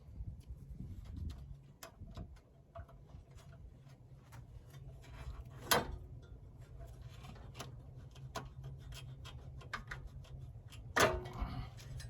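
Small clicks, taps and rubbing of hand tools working screws and parts loose, with two louder sharp clicks, one about six seconds in and one near the end. A steady low hum runs underneath.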